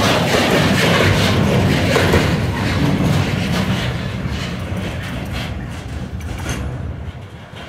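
Freight train flat wagons rolling past, steel wheels knocking rhythmically over the rails. The noise fades from about three seconds in as the last wagon passes and the train moves away.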